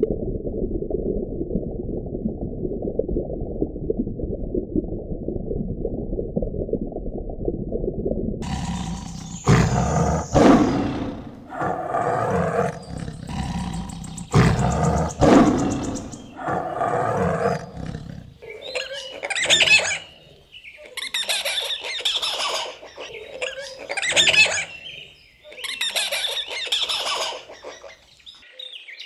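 Animal calls: a low, steady rumbling for about eight seconds, then a run of louder separate calls, each about a second long, the later ones higher-pitched.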